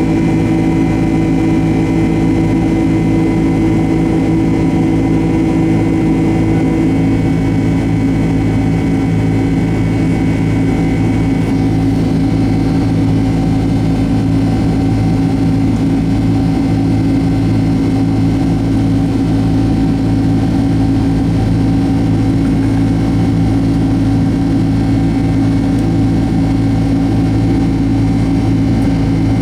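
Boeing 767-200's jet engines running at steady power, a loud even drone with several held tones and no rise or fall.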